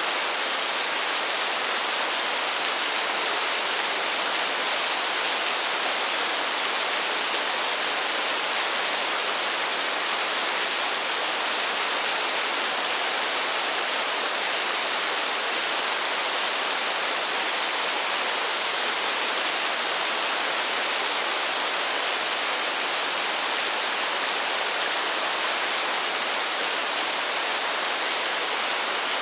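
Steady, even rainfall, a continuous hiss with no single drops or pauses standing out.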